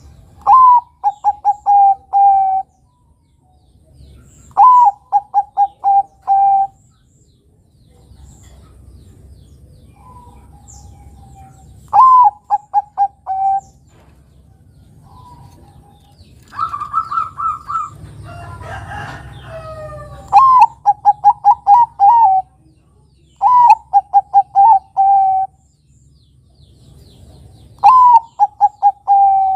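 Zebra dove (perkutut, Bangkok song type) cooing. It gives repeated phrases, each a rising opening note followed by a quick run of short coos, roughly every four seconds. Near the middle there is a higher-pitched coo phrase and a brief jumble of chirping.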